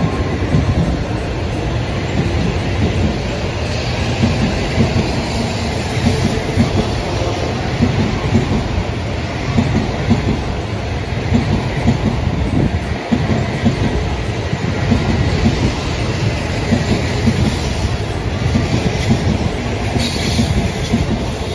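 N700A series Shinkansen train passing slowly close by: a steady rumble of wheels on rail, studded with many short knocks.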